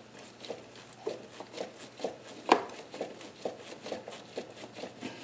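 Hand work in a car's engine bay: irregular light taps, clicks and rustles of parts being handled, about two or three a second, with one sharper knock about halfway through.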